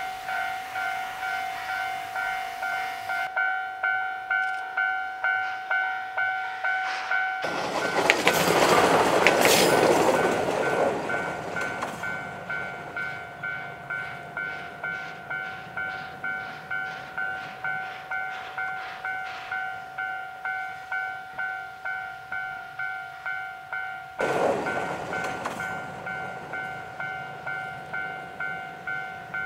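A Japanese level-crossing warning bell rings steadily at about one and a half strokes a second while the C12 66 steam train passes. About eight seconds in there is a loud rush of noise from the locomotive, lasting about three seconds. The carriages then roll by with regular clicks, and a second rush comes about 24 seconds in.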